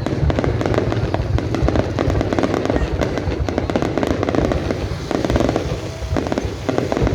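Fireworks display going off continuously: a steady stream of rapid bangs and crackles with a low rumble underneath.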